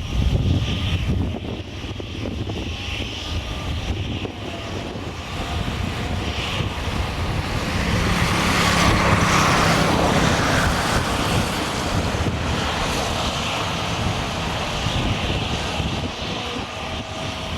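Airliner engines passing the runway edge, a wide rushing roar that builds to its loudest about nine seconds in and then fades, over a low wind rumble on the microphone.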